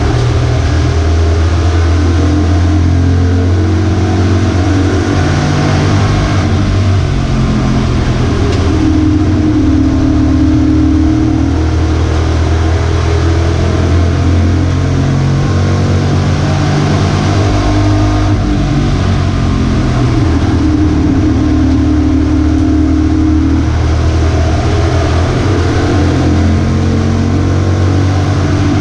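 V8 engine of a pro truck at racing speed, its pitch climbing and dropping every few seconds as the driver gets on and off the throttle around the track.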